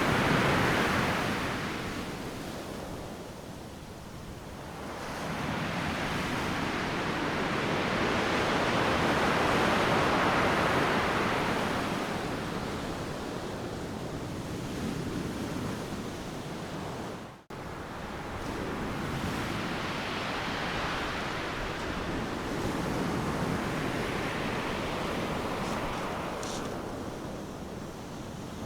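Ocean surf breaking on a beach: a continuous rushing wash that swells and fades with each set of waves, loudest at the start and again about ten seconds in. The sound drops out for a split second about two-thirds of the way through.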